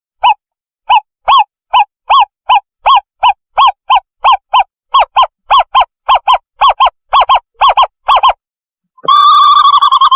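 Owl call played as a bird-catching lure: a long series of short, clear hooting notes, about two to three a second, breaking into a fast bubbling trill near the end.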